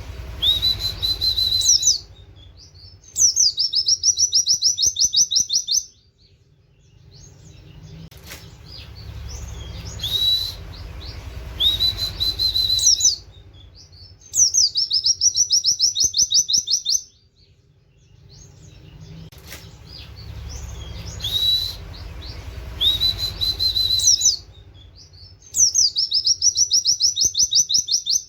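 White-eye (pleci) singing in repeated bouts: a few rising whistled notes, then a fast, high trill of 'wit wit' notes lasting about three seconds. The bout comes three times, about every eleven seconds, with a low hum underneath while it sings.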